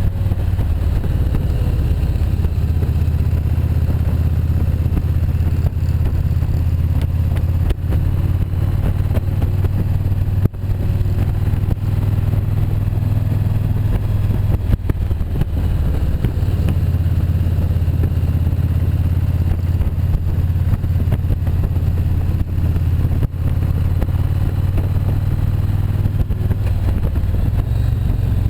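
Motorcycle engine running steadily while riding, with a constant low rumble and the rush of riding noise on the microphone.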